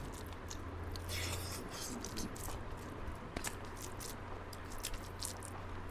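A person chewing food close to the microphone, with small wet mouth clicks and smacks scattered over a faint steady hum.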